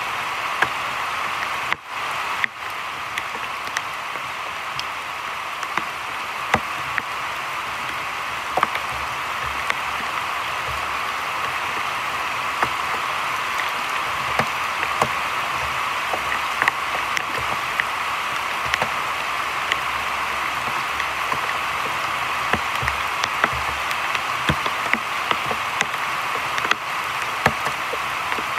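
Heavy rain pouring steadily onto a creek's surface and the surrounding leaves: a constant hiss dotted with scattered sharper drop ticks.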